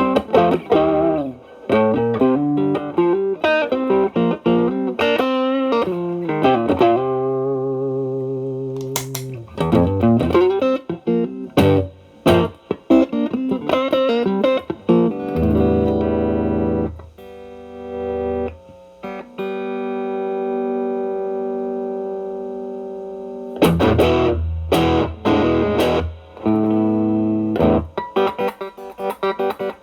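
Electric guitar, a Stratocaster played through a Xotic BB Plus preamp with channel A boosting an overdriven channel B, into a Marshall Valvestate amp. It plays distorted lead phrases of quick notes, lets long notes ring out for several seconds around the middle, then goes back to quick phrases near the end.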